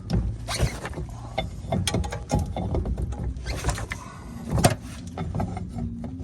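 A 24 mm spanner clinking and scraping against the fuel filter housing as it is fitted and turned: a string of irregular sharp knocks and clicks over low handling rumble.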